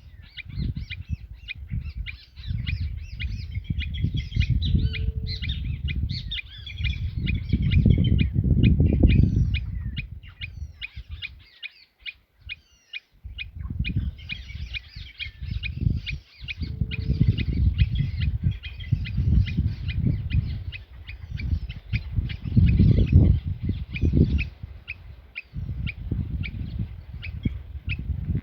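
Many small birds chirping at once in a continuous, overlapping chatter, with a short lull about halfway through. Under it, irregular low rumbling bursts come and go and are the loudest sound.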